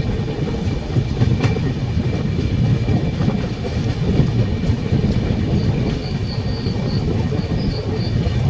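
Train running along the track: a steady, dense low rumble of wheels on rails. Faint short high squeaks come in during the second half.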